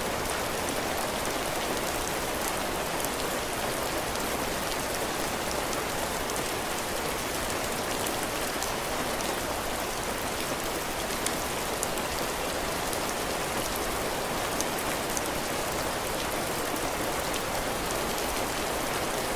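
Heavy rain falling steadily on a cabin porch, drops hitting the roof and the ground, with many fine drop ticks.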